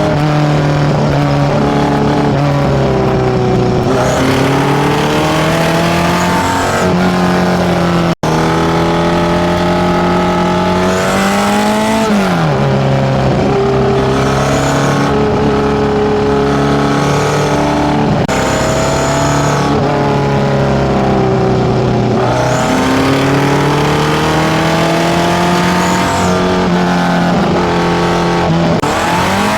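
Modified Datsun A15 four-cylinder engine breathing through Keihin FCR41 carburettors into a one-off 54 mm stainless exhaust, running loud, its pitch holding steady for stretches and then climbing and dropping several times. The sound cuts out for an instant about eight seconds in.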